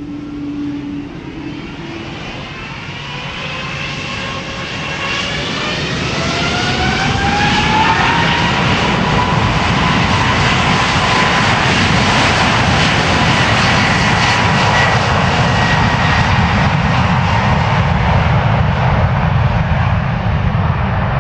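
Twin-engine jet airliner spooling up to takeoff thrust: a whine that rises in pitch over about eight seconds, then a loud steady jet roar with the whine held level.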